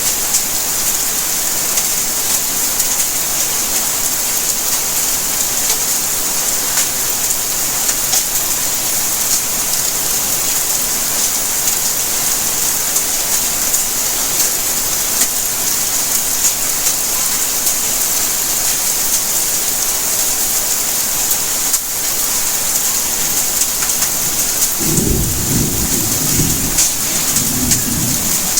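Steady, heavy rainfall, an even hiss of many drops. Near the end a low rumble of thunder rolls in under the rain.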